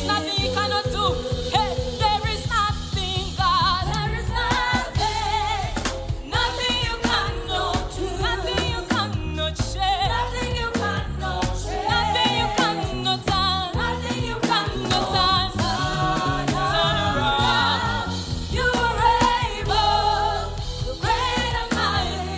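Live gospel worship song: voices singing with vibrato over instrumental backing with a steady bass line.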